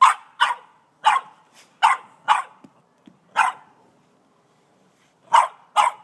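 Boston terrier barking repeatedly in short barks, mostly in quick pairs, with a pause of about two seconds before a last pair near the end.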